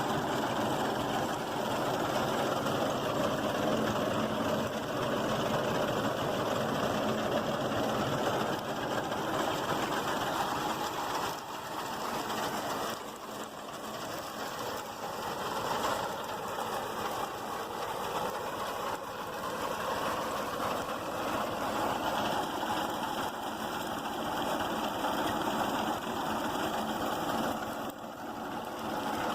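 Mahindra 265 tractor's diesel engine running steadily while it drives a tractor-mounted reaper binder through the crop, with the loudness dipping briefly a couple of times.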